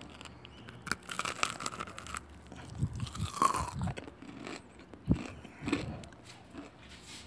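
Bites into crispy breaded fried chicken, the coating crunching with a run of crackles about a second in, followed by chewing.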